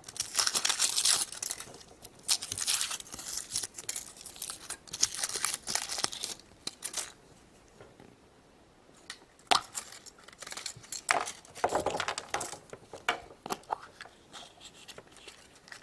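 Wrapper of a chocolate surprise egg being torn and crinkled by hand in rapid crackly bursts, pausing briefly about halfway, then more crinkling with a few sharp clicks.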